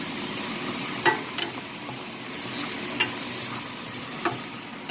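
Ground chicken sizzling in a hot frying pan with water just added, while a cooking utensil stirs it and clicks against the pan four times.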